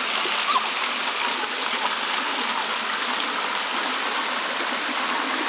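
Waterfall rushing steadily, a dense even roar of falling water, with a faint short chirp about half a second in.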